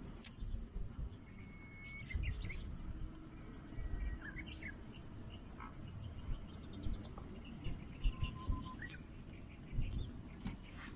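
Birds chirping and calling in short notes and brief whistles, over a low outdoor rumble, with a few sharp clicks scattered through.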